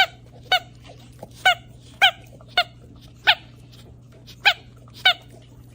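A dog barking: eight short, high-pitched barks at an uneven pace over a steady low hum.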